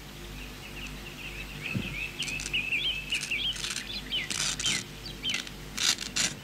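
Small birds chirping and twittering in quick runs of notes over a faint, steady low hum. There are a few short hisses about four and a half and six seconds in.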